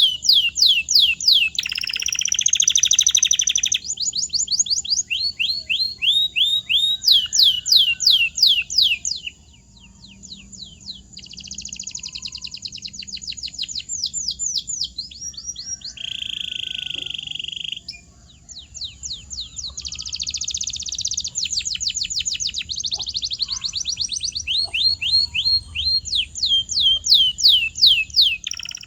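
Domestic canary singing: long tours of rapidly repeated falling whistled notes alternating with dense buzzy rolls, the song dipping briefly quieter twice before picking up again.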